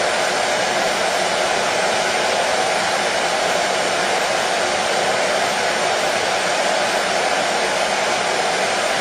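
Hair dryer running steadily on one setting, an even, unchanging rush of blown air.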